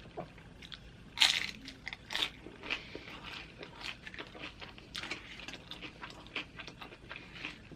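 Close-up chewing and crunching of loaded nachos: tortilla chips crackling between the teeth in a string of irregular crisp crunches, the loudest about a second in.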